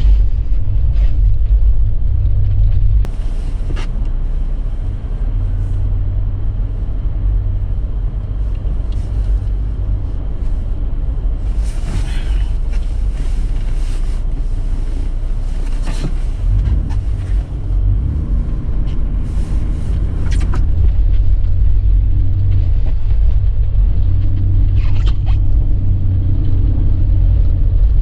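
Vehicle driving on snowy roads: a steady low rumble of engine and tyres, with a few short sharp clicks scattered through it.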